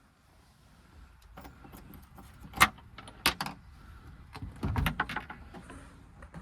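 Clicks, rattles and knocks of plastic food containers and cups being handled and set down, with two sharp knocks near the middle and a burst of rustling clatter a little later.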